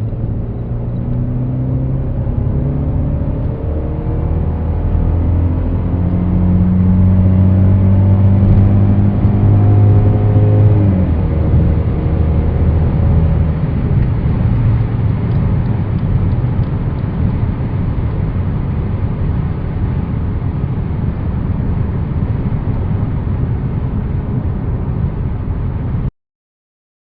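Mercedes E200 CGI's 1.8 L turbocharged four-cylinder (M271) pulling hard under acceleration, its note climbing slowly for about eleven seconds. Then the engine note drops suddenly and fades, leaving a steady rush of tyre and wind noise as the car rolls on, which cuts off just before the end.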